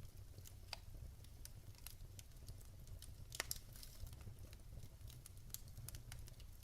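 Wood logs burning in a fireplace, crackling faintly with scattered sharp pops over a low steady rumble. The loudest pop comes about three and a half seconds in.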